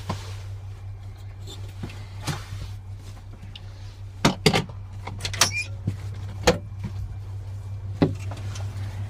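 Several sharp knocks and clunks, like a door or latch being worked, over a steady low hum.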